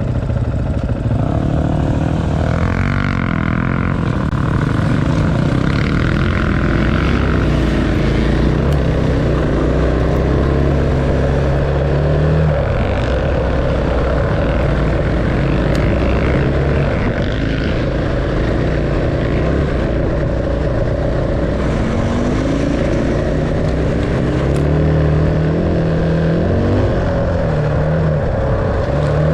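Enduro dirt bike engine running hard, its pitch repeatedly climbing and dropping with throttle and gear changes.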